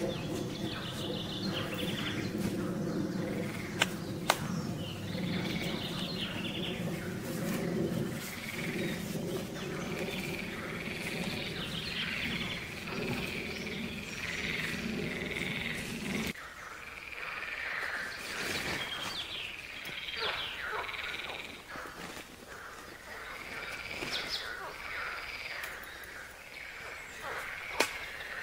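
Forest birds singing and chirping, short repeated calls and quick glides. For about the first sixteen seconds a low steady hum sits underneath and cuts off abruptly; a few sharp clicks come twice near the start and once near the end.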